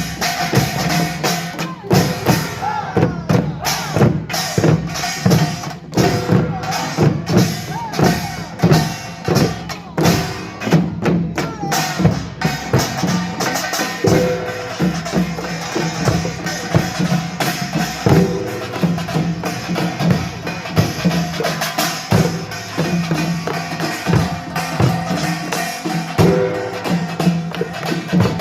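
Korean pungmul percussion band playing: dense, fast strokes on small gongs and drums together, with a low gong ringing steadily underneath.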